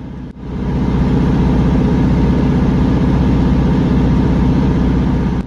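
Class 150 diesel multiple unit's underfloor Cummins NT855 six-cylinder diesel engine running loudly and steadily with a fast, even throb. It comes in about a third of a second in and builds to full level within a second.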